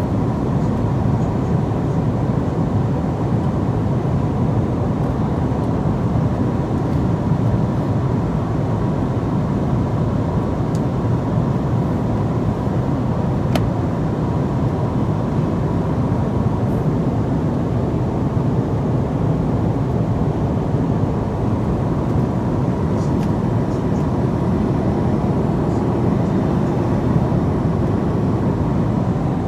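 Steady drone of an airliner cabin in flight: a deep, even rumble of engine and airflow noise with a faint steady tone above it. One light click comes a little before halfway through.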